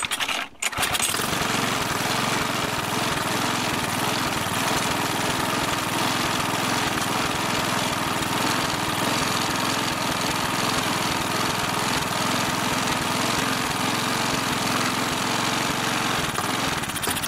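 Mountfield Emblem petrol lawn mower engine running steadily at an even speed, now fitted with a Briggs Classic carburettor.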